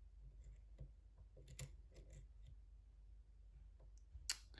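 Faint, scattered light clicks and taps of a lock pick working inside a pin tumbler lock's keyway, with a sharper click near the end, over a low steady hum.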